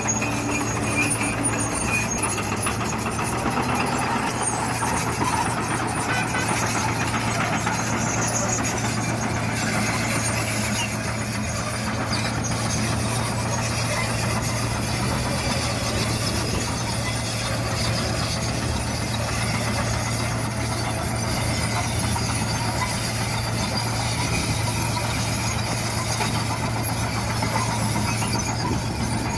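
Heavy diesel earthmoving machinery at work: a steady, unbroken engine drone with a constant low hum and hissing, clattering noise high above it.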